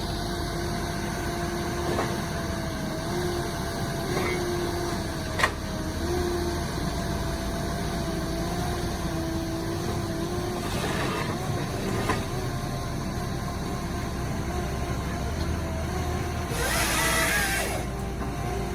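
Heavy machine's engine running steadily, with a few sharp clicks and a short burst of hiss near the end.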